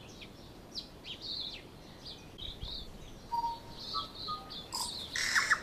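Wild birds chirping: scattered short high chirps throughout, with a few short whistled notes a little after three seconds in. A brief rough burst of noise comes near the end.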